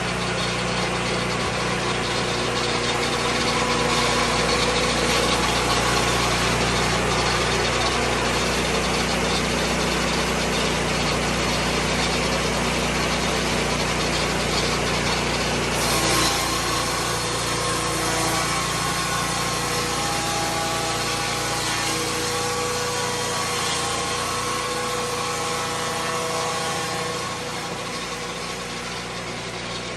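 Lucas Mill 10-30 swing-blade sawmill's engine running steadily, with a short knock about sixteen seconds in and the level dropping slightly near the end.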